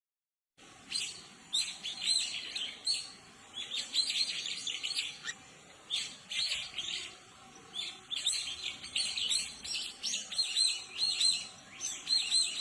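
Small birds chirping in quick, high-pitched bursts, group after group about once a second, starting about half a second in.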